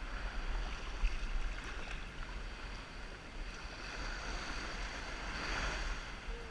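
Ocean water washing around a kayak, with wind rumbling on the microphone and a single brief knock about a second in.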